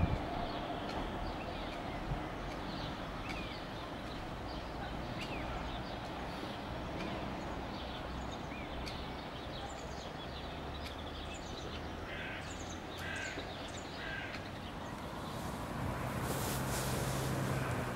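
Outdoor ambience with small birds chirping and a crow cawing three times, about a second apart, roughly two-thirds of the way in. Near the end a low steady hum and a rush of wind on the microphone come up.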